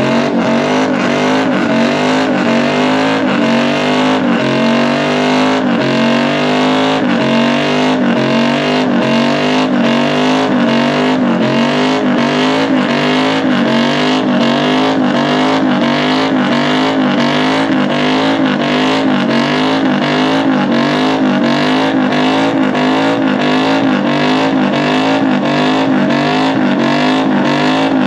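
Pickup truck's engine held at high revs during a burnout contest run, its pitch wavering up and down about twice a second as the throttle is worked, with the hiss of the rear tires spinning against the pavement.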